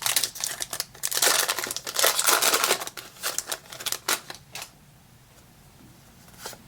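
Foil Pokémon booster-pack wrapper crinkling and tearing, with cards being handled. The rustling is busy at first and dies down about two thirds of the way through.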